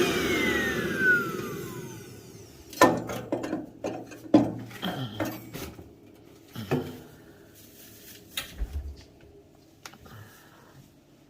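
A vacuum cleaner's motor winding down, its whine falling in pitch and fading over the first two seconds. Then a run of sharp knocks and scrapes as the pellet stove's burner basket, clogged with unburnt pellets, is cleaned out.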